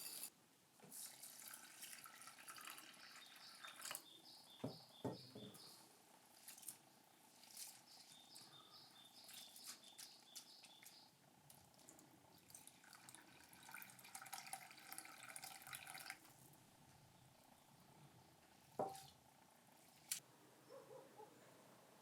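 Faint trickling and dripping water, with scattered light clicks and two sharper knocks near the end.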